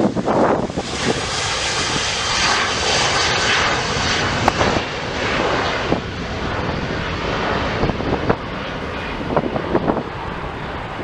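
Jet airliner's engines going past, a broad rushing roar that swells about a second in and eases off after about five seconds.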